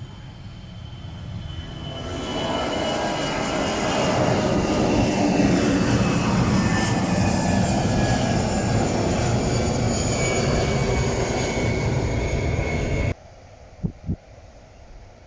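Jet airliner's engines passing close, loud rushing noise with a whine that slowly falls in pitch as it goes by. The sound cuts off suddenly near the end, followed by two short knocks.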